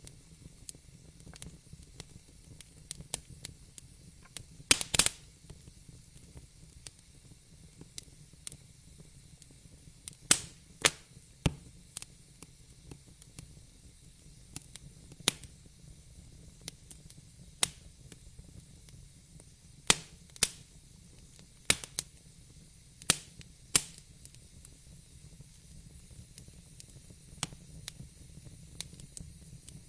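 Wood fire crackling: a soft steady hiss with frequent sharp pops and snaps, the loudest a quick cluster about five seconds in and a run of strong pops between about 20 and 24 seconds.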